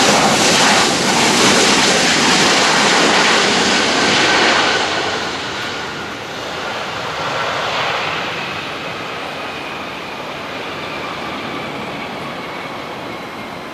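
Boeing 737-800 jet engines passing close by, loud for the first five seconds and then fading to a lower, steady rush with a faint whine.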